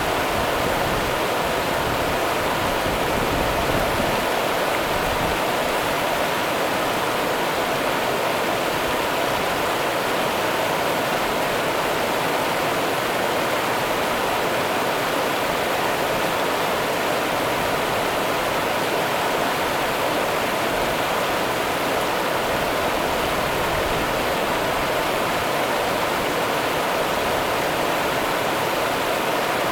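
Rio Grande river water running over rocks: a steady, even rushing with no breaks.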